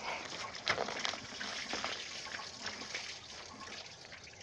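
Rusty coolant and flush water trickling out of the disconnected radiator hose as the truck's cooling system drains, with a few faint knocks; the flow tapers off near the end.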